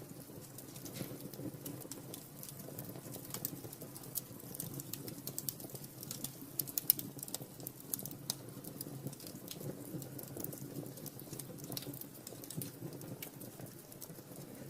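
Wood fire burning in a fireplace, crackling with irregular sharp snaps and pops over a steady low rumble.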